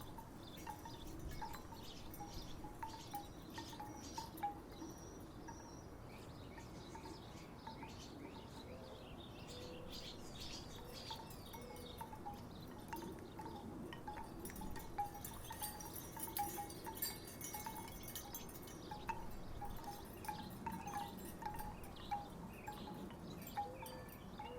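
Wooden tiki wind chimes knocking together irregularly in the breeze, giving short, hollow wooden tones.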